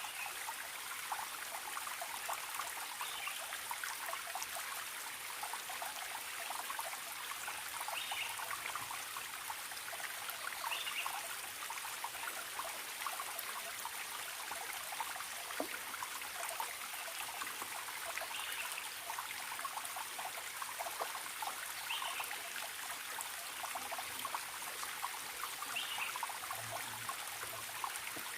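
Forest stream trickling and babbling steadily over stones, with a short bird call every few seconds, about six in all.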